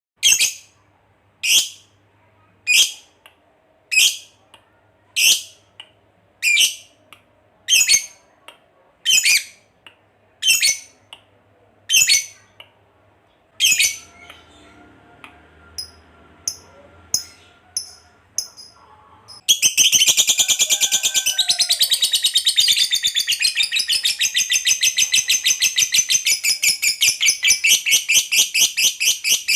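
Lovebird calling: a string of sharp, high single chirps, about one every second, then from about two-thirds of the way in a long, unbroken, rapid chatter of repeated notes, the 'ngekek panjang' that keepers prize.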